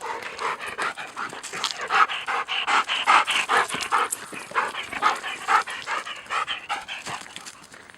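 Dog panting rapidly and rhythmically, about three to four breaths a second, from the exertion of chasing a ball. The panting fades toward the end.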